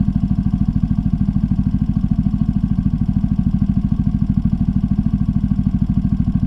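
Mini motorcycle's small engine running at steady low revs, a fast, even putter with no revving.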